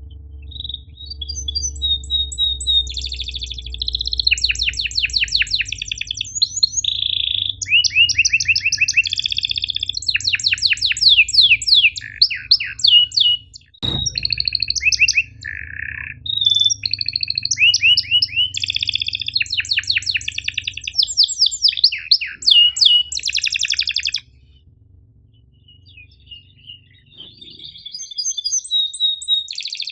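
Domestic canary singing fast rolling trills of rapidly repeated notes mixed with sharp chirps, going quieter for a few seconds near the end. A single click sounds about halfway through.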